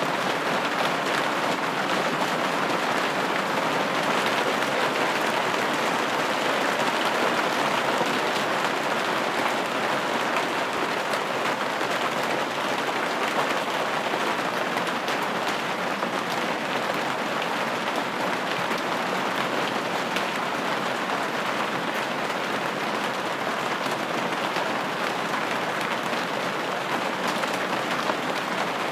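Steady rain pattering on a window pane, an even hiss of many small drop ticks with no change in intensity.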